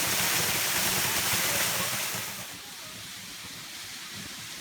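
Waterfall rushing, a steady hiss of falling water that drops clearly in level about two and a half seconds in.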